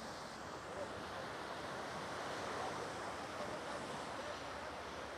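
Steady rushing noise of sea surf on the beach.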